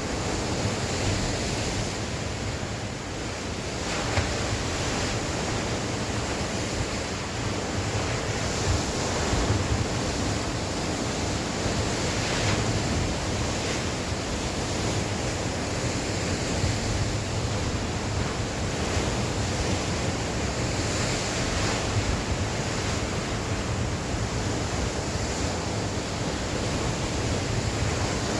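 Sea waves washing onto the shore in a strong wind, a steady rushing surf with gentle swells as waves break, and wind buffeting the microphone.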